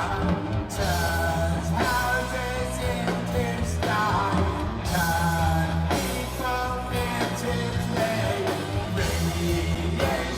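Rock band music with a lead singer over guitar and bass, cutting in suddenly at the start.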